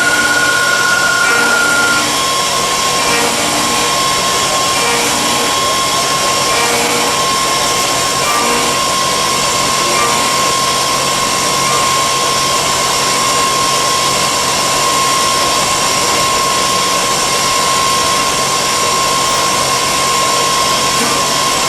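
CNC lathe running and cutting metal: a steady machine whine over a constant noisy hiss, with a second, higher whine that stops about two seconds in.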